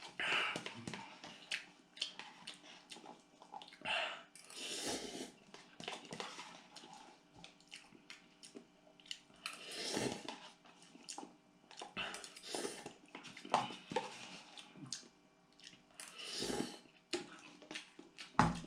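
A person eating spicy instant noodles close to the microphone: several long slurps with chewing and mouth clicks in between.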